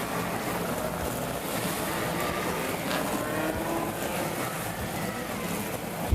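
Historic Group A and Group C touring cars' engines running on the circuit, an even mix of engine notes rising and falling under a steady rushing noise.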